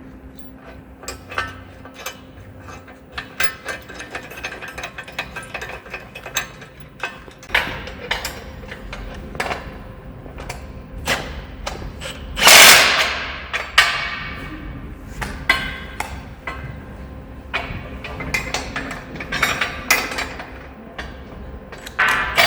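Steel parts of a band sawmill bed being bolted together with hand tools: a run of metallic clicks, taps and knocks, with one loud ringing clang of steel about halfway through.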